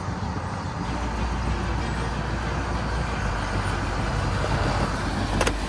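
Ford F-550 roll-off truck running steadily with a low rumble that grows deeper about a second in, and a sharp click near the end.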